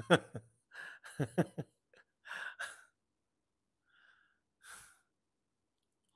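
A man's short breathy vocal sounds without words: a few sharp exhales and gasps, two of them voiced and quickly falling in pitch, in the first three seconds, then two fainter breaths.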